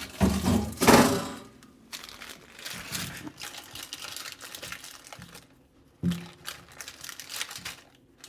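Packaging crinkling and rustling as it is handled, with a few louder knocks in the first second, then a longer run of lighter crackling and rustle.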